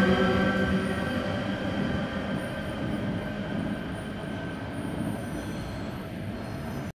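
SNCF TGV Duplex high-speed trainset moving away. A steady whine fades out over the first few seconds, and the rolling noise grows steadily fainter until the sound cuts off suddenly near the end.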